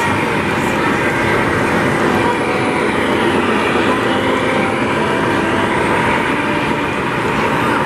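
Steady, loud rumble and rush of a vehicle in motion, with a faint tone that sinks and rises again midway.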